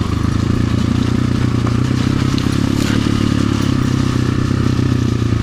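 RXB250XL 250 cc dirt bike engine running steadily at low revs, with some light clatter.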